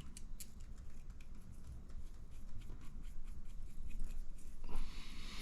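Small clicks and taps of RC shock parts and tools being handled on a workbench. A short rustle comes near the end.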